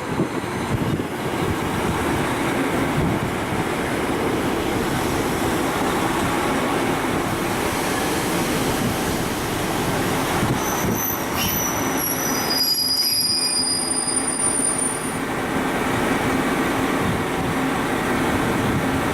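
KiHa 261 series 1000 diesel multiple unit pulling out under power, its diesel engines and wheels on the rails running steadily. About eleven seconds in, high-pitched wheel squeal sounds for a few seconds.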